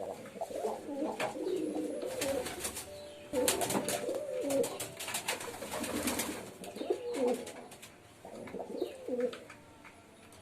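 Domestic pigeons cooing, several low coos in a row with short pauses, mixed with sharp clicks and rustling in the middle.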